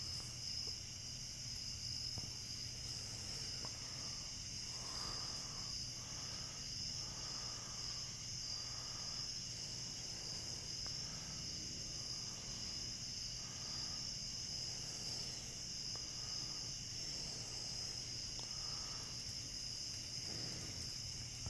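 Steady, high-pitched chorus of night insects droning without a break, with a fainter lower note repeating about once a second through the middle.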